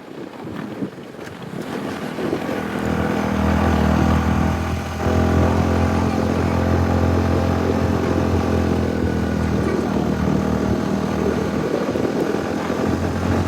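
An engine running steadily, growing louder over the first few seconds and then holding.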